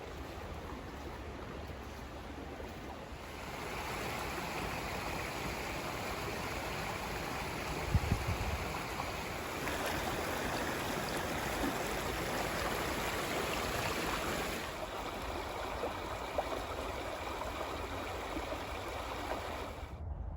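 A small creek running, a steady rush of water that grows louder about three seconds in. A brief dull thump comes near the middle.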